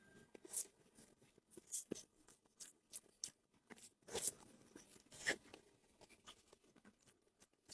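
Quiet eating sounds: scattered soft crunches and clicks, about half a dozen distinct ones spread a second or so apart.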